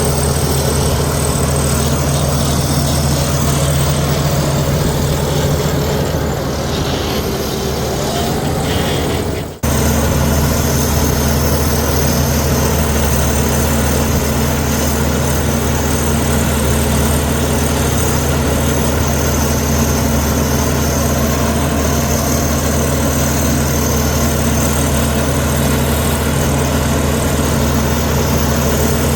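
Heavy diesel engine of a Komatsu D61EX bulldozer running steadily at a constant pitch. It cuts off abruptly for an instant about a third of the way in, then resumes at the same level.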